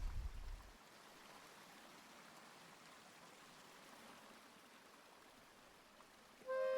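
A low rumble fades out within the first second, leaving a faint steady hiss. Near the end a clarinet melody begins.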